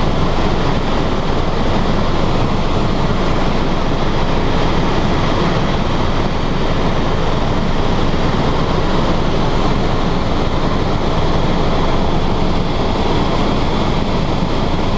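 Tour helicopter in cruising flight, heard from inside the cabin: a loud, steady rush of rotor, turbine and wind noise.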